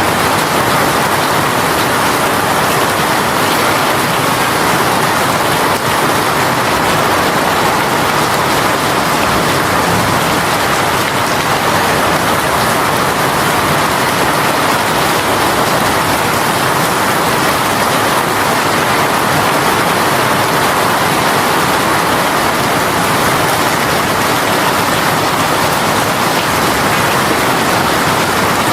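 Heavy rain shower falling steadily on surfaces, a dense even hiss of raindrops.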